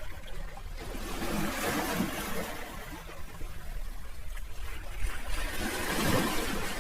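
Sea waves washing in, an even rush of surf that swells twice, about a second and a half in and again near the end, over a steady low rumble.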